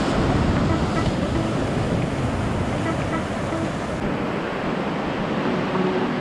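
Sea surf washing onto the shore, a steady rushing noise with wind buffeting the microphone.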